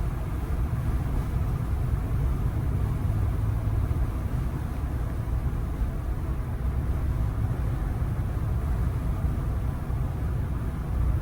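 Steady low rumble of road and engine noise inside a moving truck's cab.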